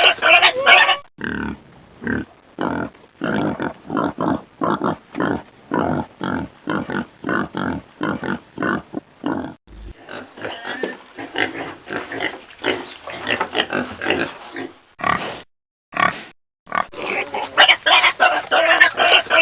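Pigs fighting: loud, harsh squealing near the start and again near the end, with a run of short grunts, about two a second, in between.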